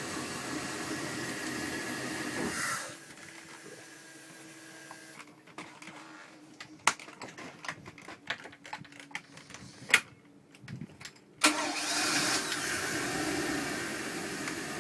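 Mercruiser 7.4 MPI V8 boat engine running steadily, then the sound drops away about three seconds in. A quieter stretch of scattered clicks and knocks follows, and the engine sound comes back suddenly near the end.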